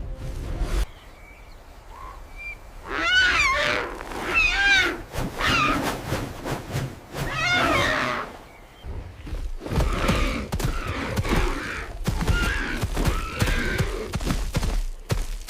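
Animal cries: several shrill, wavering calls that bend up and down in pitch, starting about three seconds in. They are followed by a busier stretch of low thuds and scuffling under fainter calls.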